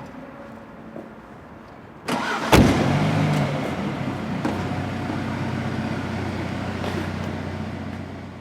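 A car engine starting about two seconds in, with a sharp bang as it catches, then running steadily and slowly fading away near the end.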